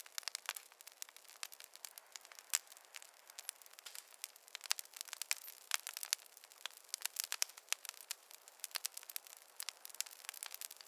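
Campfire crackling: a dense, irregular run of small sharp snaps and pops over a faint hiss, with no low rumble.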